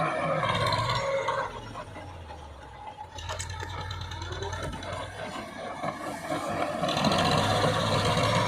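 Massey Ferguson 5900 DI tractor's diesel engine running with a steady low hum. The sound falls away after about a second and a half and comes back up near the end.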